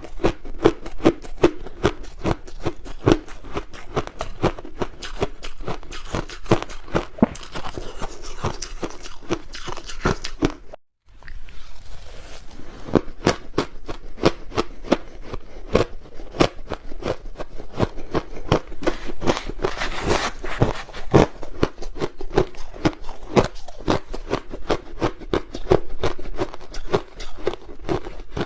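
Crushed ice being bitten and chewed close to the microphone: dense, rapid crunching, broken by a brief silent gap about eleven seconds in.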